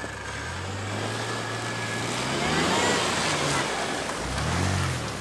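1UZ V8 engine of a 1989 Toyota pickup running in deep snow: it holds steady, climbs in pitch with a rushing hiss about halfway, then is revved up and down twice near the end.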